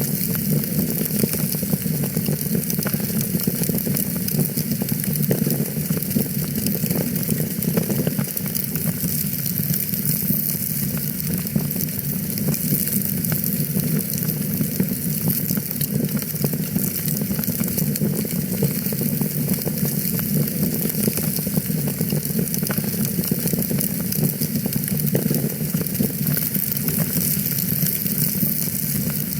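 Wood fire crackling steadily: a dense stream of small pops and snaps over a continuous hiss.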